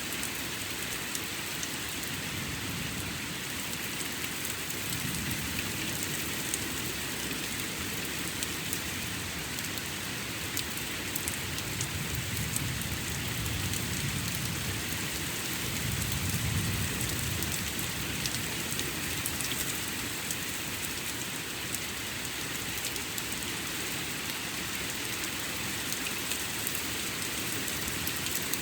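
Steady rain falling and pattering on surfaces, with distant thunder rumbling low twice, the longer rumble in the middle.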